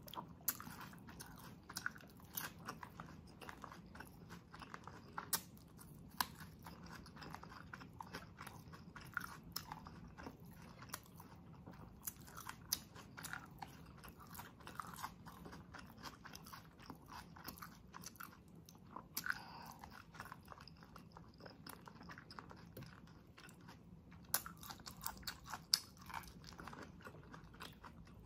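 Close-miked chewing of sisig and rice with raw onion, irregular sharp crunches and wet mouth clicks coming several times a second.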